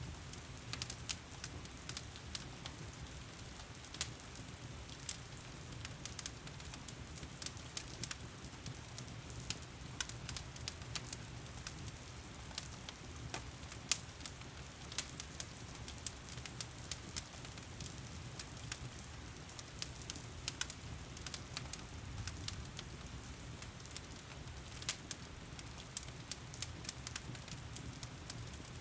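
Fireplace crackling with frequent irregular sharp pops over a steady hiss of heavy rain and a low rumble.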